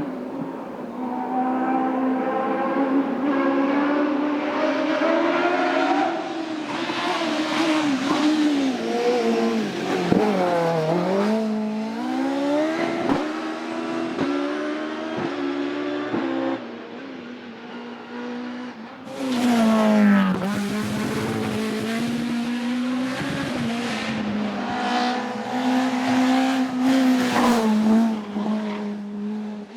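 Racing car engines at hard throttle on a hillclimb course, the pitch climbing through the gears and dropping sharply at shifts and braking. About two-thirds through, a new loud engine passage starts abruptly.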